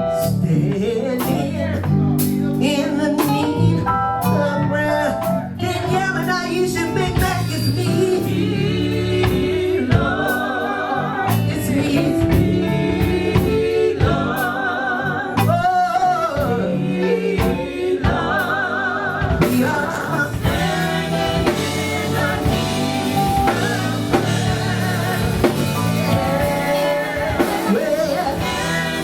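Live gospel singing with a wavering vibrato over a band with drums, loud and continuous.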